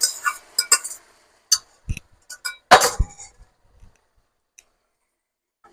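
A cooking utensil knocking and scraping against a pan as cooked potato is stirred into sautéed onion. A frying sizzle fades out about a second in, leaving a handful of separate clinks and knocks; the loudest comes about three seconds in.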